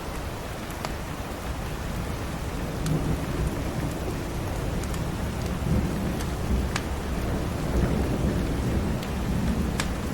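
Steady rain with a low rolling rumble of thunder that swells in about three seconds in and keeps rolling. Scattered sharp crackles from a wood fire sound over it.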